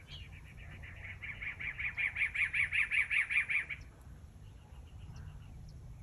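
A bird calling a fast run of repeated notes, about seven a second, growing louder for a couple of seconds and then stopping abruptly near the middle; a few faint high chirps follow.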